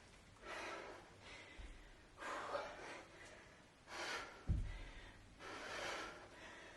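A woman breathing hard through the exertion of repeated kettlebell cleans, with four forceful breaths spaced a little under two seconds apart. Two dull low thuds come about a second and a half in and, more strongly, about four and a half seconds in.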